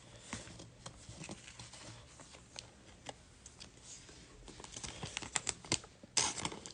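Trading cards and their packaging being handled: light scattered clicks and soft rustles, busier near the end, with a brief scuffing rustle just before it ends.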